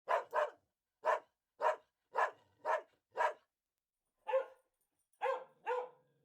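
A dog barking: about ten short, sharp barks in a series, roughly two a second, with a brief pause about two thirds of the way through.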